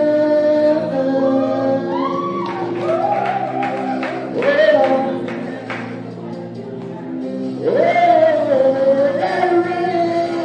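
Gospel song: a solo singer holds long notes and slides up into new ones, over a backing of sustained chords.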